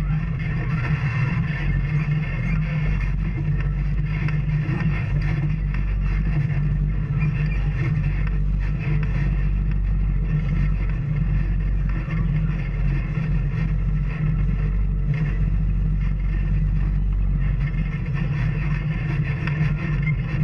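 Off-road vehicle engine running steadily under way, with a constant low drone and rough road noise.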